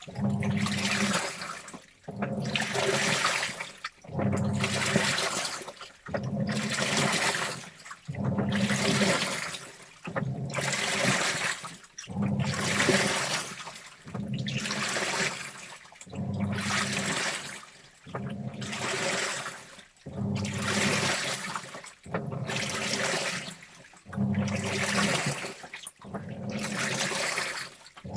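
Washing machine in its wash cycle: the drum turns in strokes about every two seconds, each a surge of water sloshing and swishing over the motor's hum, with a brief pause between strokes.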